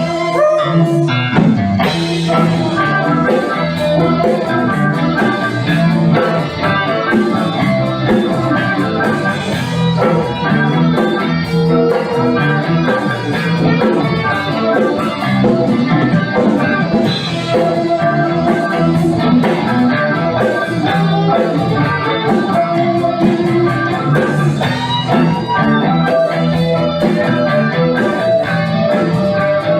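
Instrumental break of a rock song: electric guitar playing over bass and a drum kit, with no singing.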